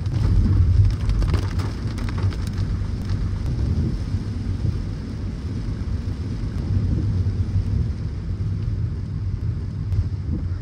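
Car driving through heavy rain: rain on the car and tyres on a wet road, under a steady low rumble, with scattered sharp drop ticks in the first few seconds.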